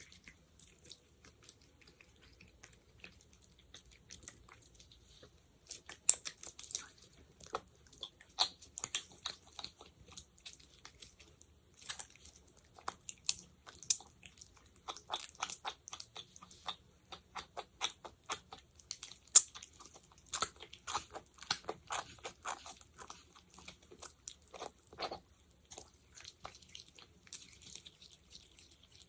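Sticky, wet crackling and clicking of a thick jelly-like substance being squished and pulled apart. Faint for the first few seconds, then a dense run of quick clicks, with one louder snap about two-thirds of the way through, thinning out near the end.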